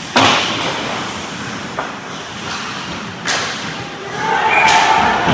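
Sharp bangs of ice hockey play against the rink boards: two loud ones about three seconds apart, each echoing through the arena, and a lighter knock near the end as a wash of rink noise rises.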